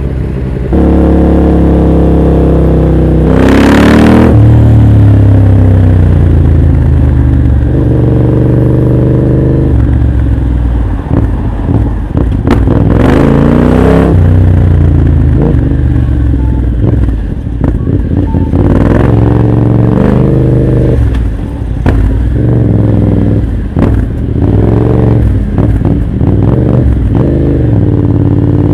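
Motorcycle engine through an aftermarket full exhaust, revving up repeatedly. The pitch climbs, then drops at a break, as when changing gear under acceleration, with some sharp pops along the way.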